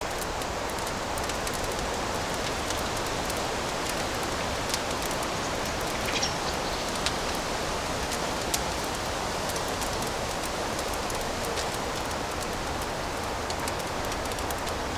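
Fireplace fire burning, a steady hiss with scattered small crackles and pops.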